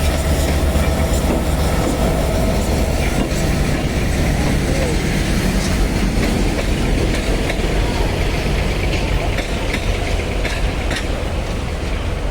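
A train rolling past, with a steady low rumble and the wheels clicking over the rail joints.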